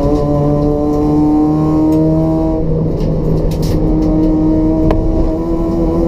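Toyota Etios race car's 1.5-litre petrol engine with free-flow exhaust pulling steadily up through the revs under load. A little under halfway in there is an upshift: the note breaks off, picks up again lower and starts to climb.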